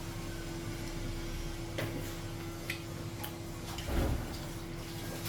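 Scattered light clicks and taps of a meal, dishes and utensils being handled, over a steady low hum, with a dull thump about four seconds in.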